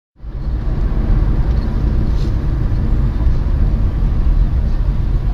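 Steady low rumble of a car's road and engine noise heard from inside the cabin by a dashcam, starting abruptly just after the opening.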